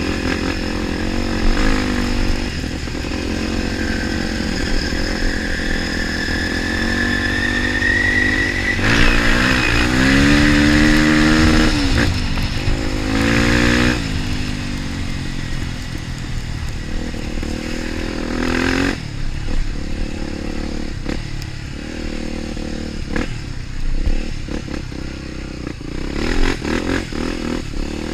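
Trail motorcycle engine running, revving up and down hard several times, with the strongest surges in the middle of the stretch and another short one about two-thirds of the way through.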